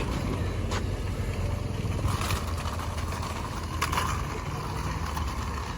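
Steady low rumble of a running vehicle engine, with a few faint clicks and knocks over it.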